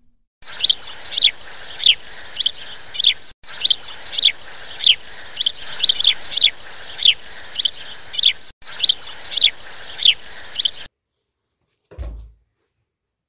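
A bird chirping over and over, each chirp a quick high note falling in pitch, about every half second. The sound drops out briefly twice and stops abruptly; a short low thump follows near the end.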